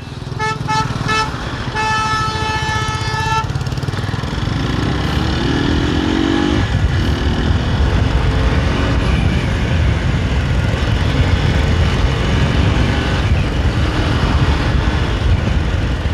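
Vehicle horn honking in road traffic: three short toots, then one long blast of about a second and a half. Under it, the steady low rumble of a motorcycle riding in the jam.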